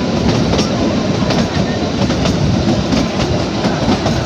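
Narrow-gauge Kalka–Shimla toy train coach running along the track, heard from its open window: a steady rumble of wheels on rail with irregular clicks from the rail joints.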